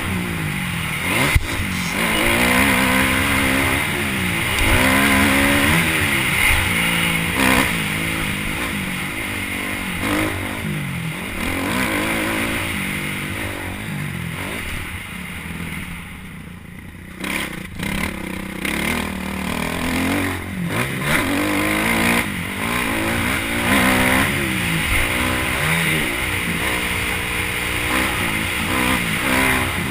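Motocross bike engine revving up and down over and over as the throttle is worked, with a short drop about sixteen seconds in where the throttle comes off before the engine picks up again.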